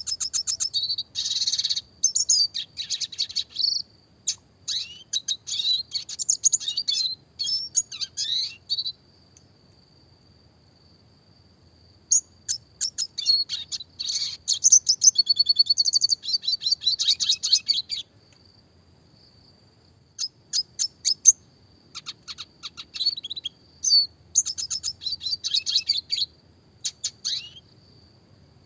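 Red siskin singing: rapid, high twittering song full of fast trills and rattles, in three long bursts with short pauses between them. A thin, steady high whine carries on through the pauses.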